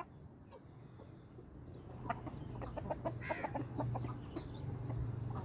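Aseel roosters clucking in short repeated notes from about two seconds in, with one harsher squawk a little after three seconds, over a steady low hum.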